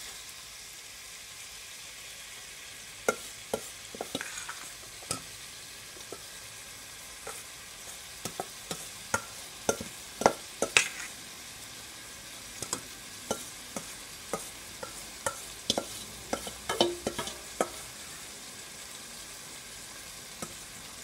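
Salt fish, onions, peppers and tomatoes frying in oil in a metal pot: a steady sizzle with scattered sharp pops and clicks, busiest about halfway through and again a few seconds later.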